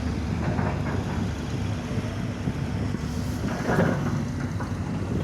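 Excavator's diesel engine running steadily at work, briefly louder about three and a half seconds in.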